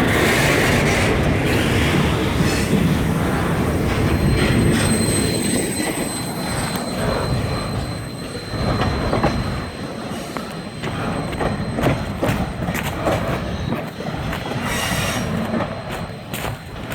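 Freight train rolling past on steel rails: a steady rumble of cars, with thin high wheel squeal in the first half and a string of sharp clicks and clanks over rail joints, easing off somewhat toward the end.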